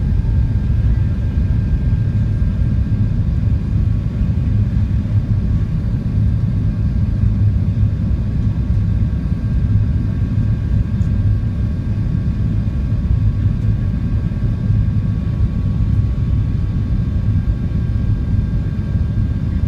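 Steady low rumble of airliner cabin noise inside an Airbus A380, with faint steady tones above it.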